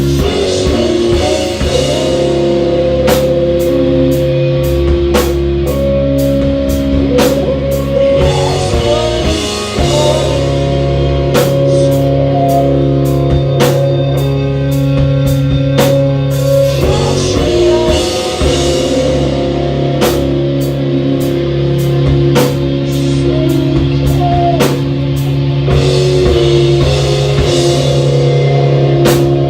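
Live rock band playing loudly: electric guitars holding sustained chords over a bass line and a drum kit keeping a steady beat.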